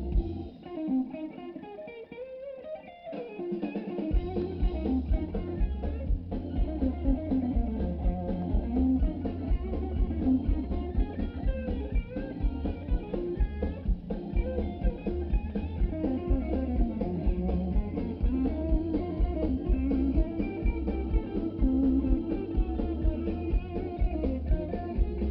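Live blues band playing: electric guitar over bass and drums. About half a second in the bass and drums drop out for a few seconds, then the full band comes back in.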